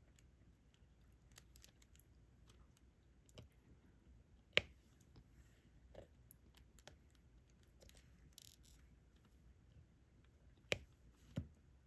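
Faint, scattered clicks and taps of a diamond-painting drill pen placing resin drills onto the canvas, with sharper clicks about four and a half seconds in and near the end.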